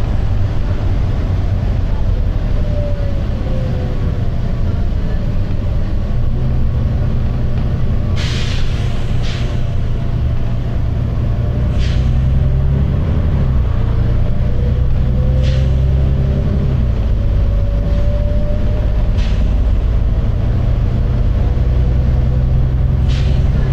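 Volvo B9TL double-decker bus running with a heavy, steady engine rumble and a whine that glides up and down in pitch as it drives. Six short, sharp air hisses from its air brakes and pneumatic system break in, the loudest about eight seconds in.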